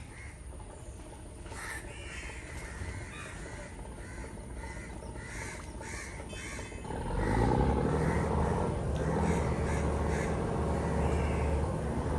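Crows cawing repeatedly. About seven seconds in, a louder low steady drone, like a motor, comes in and runs on.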